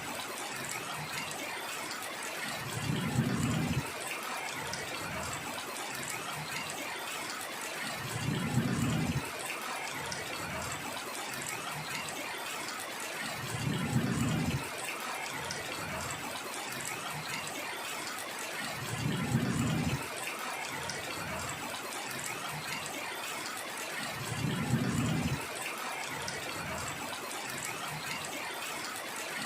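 Steady hiss of heavy rain. A short low rumble comes back at even intervals, about every five and a half seconds, five times.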